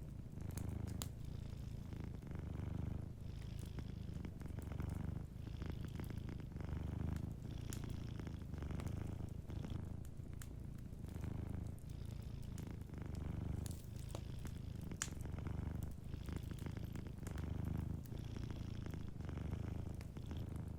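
Domestic cat purring steadily, the low rumble swelling and fading with each breath in and out. A wood fire crackles softly with scattered sharp pops.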